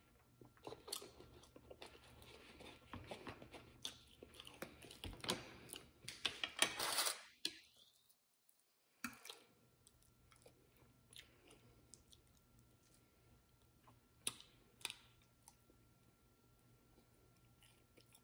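Close-miked mouth sounds of a person drinking from a plastic water bottle and then eating mashed garlic potatoes with a fork: irregular wet clicks and crackles, busiest in the first several seconds, with the sound cutting out completely for about two seconds midway and sparser chewing clicks after.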